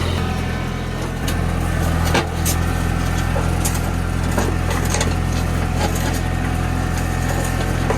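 TYM 224 compact tractor's diesel engine running steadily, with scattered clicks and knocks over it, the loudest a little over two seconds in.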